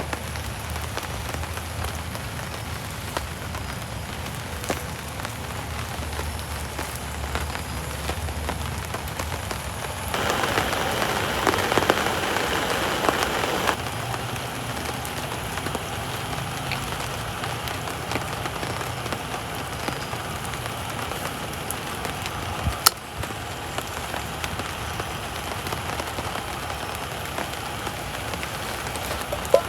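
Steady rain falling, with a louder spell of a few seconds about a third of the way in and a single sharp click about two-thirds of the way through.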